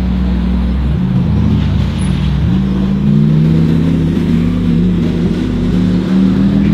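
High-performance car engine under hard acceleration: a low, steady engine note that climbs in pitch from about two and a half seconds in and keeps rising until it cuts off abruptly near the end.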